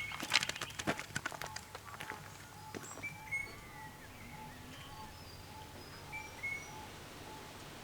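Birds chirping outdoors, one of them repeating a short note about twice a second. A quick run of sharp clicks or taps comes in the first two seconds.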